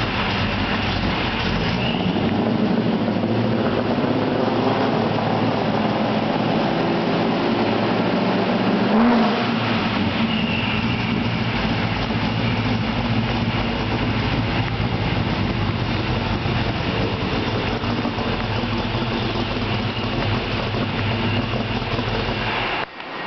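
Supercharged small-block Chevy stroker V8 in a 1966 Chevelle idling steadily, with one short blip of the throttle about nine seconds in.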